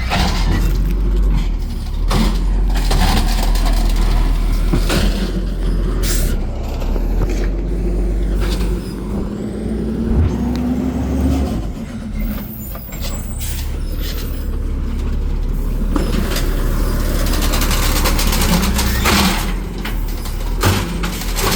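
Recycling garbage truck running, its diesel engine making a steady low rumble, with short air-brake hisses and sharp clanks. Near the middle, a rising tone lasts a few seconds.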